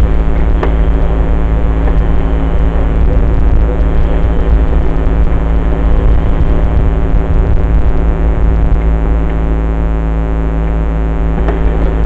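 Dirt bike engine running at a steady, unchanging speed, loud and close, with a few sharp knocks now and then.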